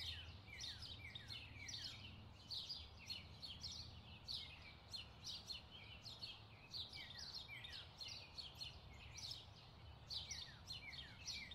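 Birds chirping: a steady stream of short, falling chirps, several a second, over a faint low hum.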